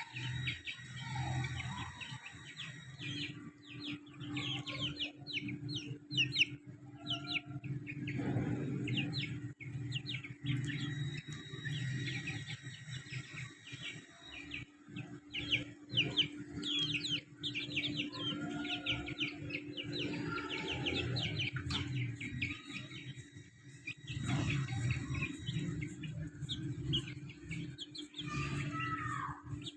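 Baby chicks peeping: many short, high chirps in quick succession, over a steady low hum.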